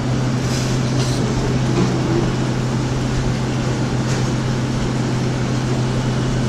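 Steady low mechanical hum over an even background noise, with a few faint clicks.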